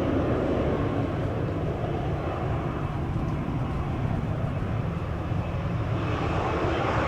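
Steady roar of jet airliner engines, with wind buffeting the microphone as a fluttering low rumble.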